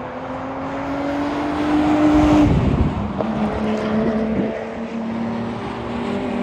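Sports car engine on a race track, rising in pitch as it accelerates, loudest about two and a half seconds in, then dropping to a lower, steadier engine note.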